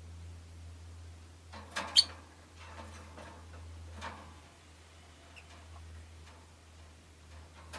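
Rosy-faced lovebirds chirping and clicking, with one sharp, loud, high chirp about two seconds in and softer scattered calls and ticks after it. A steady low hum runs underneath.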